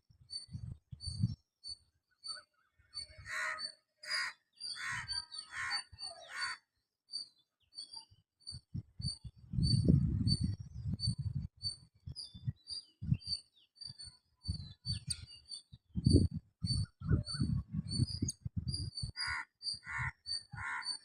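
Small birds chirping, taken to be robins: a short high chirp repeats steadily about twice a second, with louder calls a few seconds in and again near the end. Bouts of low rumbling noise come in the middle and later on.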